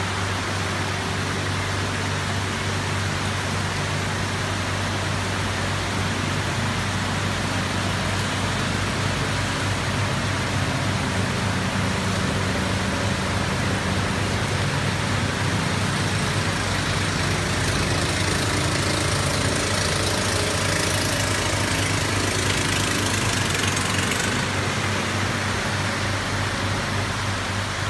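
Heavy rain falling steadily, a dense even hiss, over a steady low hum.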